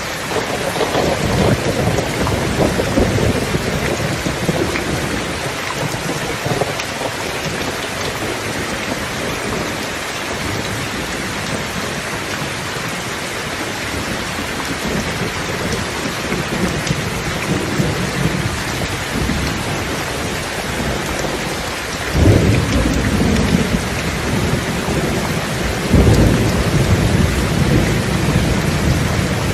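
Steady heavy rain with thunder rumbling: a rolling rumble about a second in, then two sharper claps about 22 and 26 seconds in, each dying away over a few seconds.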